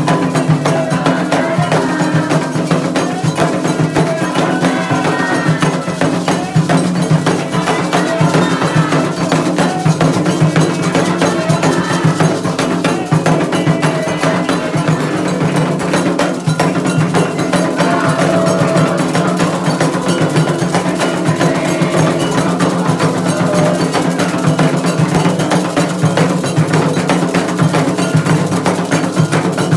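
Candomblé ritual drumming: atabaque hand drums and an agogô bell beating a fast, steady rhythm, with voices singing over it.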